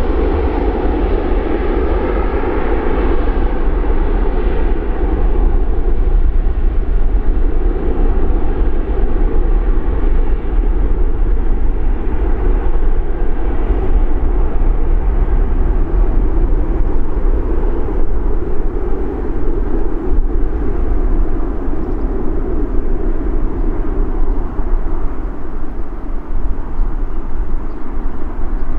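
Boeing 737-800's CFM56-7B jet engines at takeoff thrust: a loud, steady rumble whose upper hiss slowly dulls as the airliner moves away.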